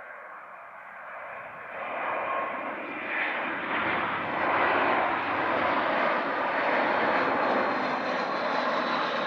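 Airbus A319-132 jet airliner on landing approach, its engine noise swelling about two seconds in and holding loud and steady as it passes close by, with a faint high whine near the end.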